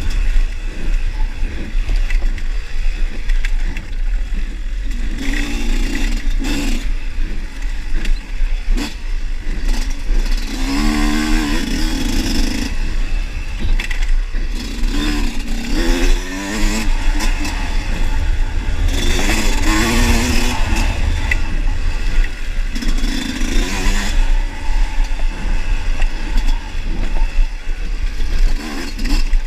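Dirt bike engine revving up and down repeatedly while riding a trail, its pitch climbing and dropping several times, over a steady deep rumble of wind on the microphone and rattling and scraping from the bike.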